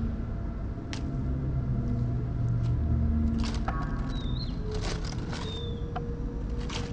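A small songbird feeding its nestlings at the nest: short, noisy, scratchy calls in clusters about midway and again later, with a couple of high thin chirps, over a steady low background rumble.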